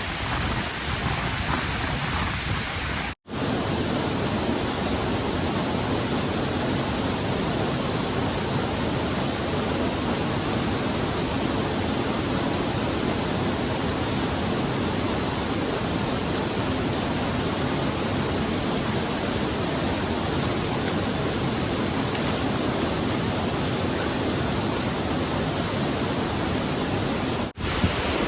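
Steady rush of stream water flowing over rocks, an even full hiss that briefly cuts out twice.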